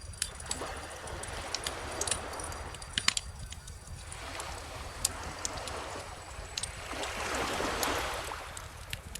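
Bonfire crackling with scattered sharp pops, and a cluster of loud pops about three seconds in. Under it, calm ocean waves wash in as slow swells, the strongest near the end.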